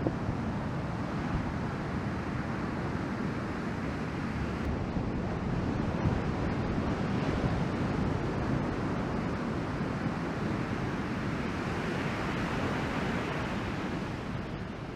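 Ocean surf from a typhoon swell breaking and washing, mixed with wind rushing over the microphone: a steady roar that gets a little louder in the middle.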